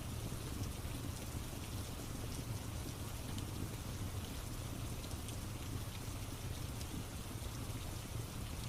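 Steady rain ambience with a low rumble, sprinkled with small scattered crackles of a wood fire.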